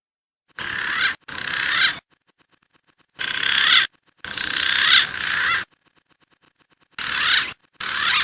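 Recorded green pigeon (punai) calls played as a hunting lure: six wavering, whistled phrases in three pairs, each under a second to about a second and a half long, that start and stop abruptly.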